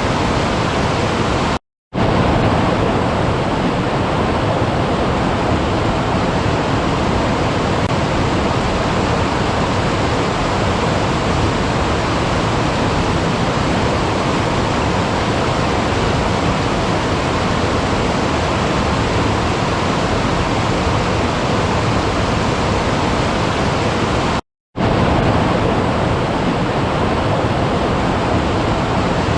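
Steady, loud rush of running water, with two brief drops to silence, one about two seconds in and one near the end.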